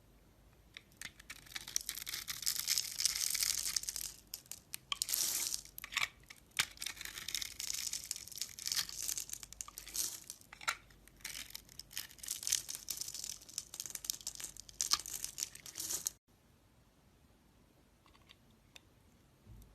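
A knife carving and shaving a bar of soap: a run of crisp, crunchy scrapes and sharp clicks as the blade cuts through. It stops abruptly about three-quarters of the way through, leaving only a few faint ticks.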